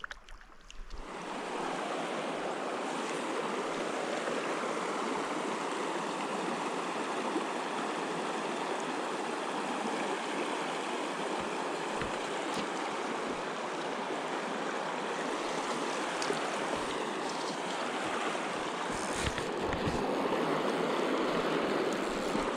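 Mountain river water rushing steadily over rocks, coming up strongly about a second in.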